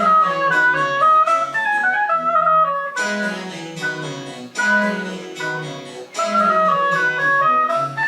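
Baroque chamber music: a flute plays a stepping melody over a plucked-string accompaniment, with fresh plucked chords sounding about every second and a half.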